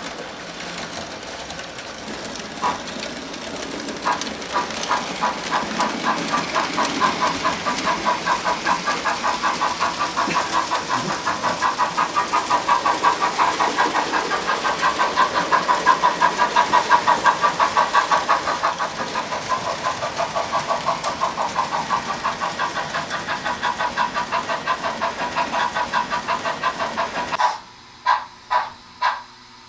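HO-scale model steam locomotive running with a fast, even chuffing rhythm that grows louder and then eases off. It cuts off abruptly near the end, followed by three short bursts.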